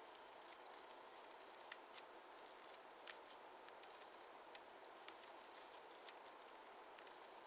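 Faint crisp clicks and crinkles of a 15 cm square of origami paper being folded and creased, a dozen or so scattered ticks over a steady hiss, all very quiet.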